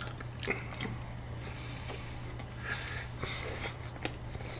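Faint chewing and mouth sounds from eating a cream-topped waffle, with a few small irregular clicks over a steady low hum.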